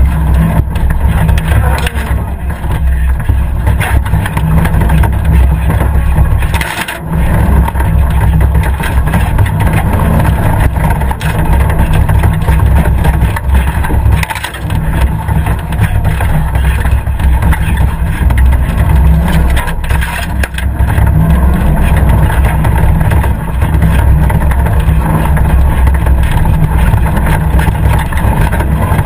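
Competition 4x4's engine running hard on a rough, rutted off-road track, with a heavy low rumble throughout; the sound dips briefly a few times, near seven, fourteen and twenty seconds in.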